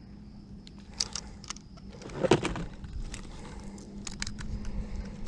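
Handling noise of small clicks and light jingling, with one louder knock about two seconds in, over a steady low hum.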